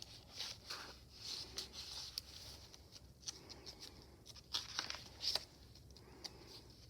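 Paper pages and tags of a handmade journal being handled and turned: faint rustling with scattered light ticks, a couple of them louder about four and a half and five and a half seconds in.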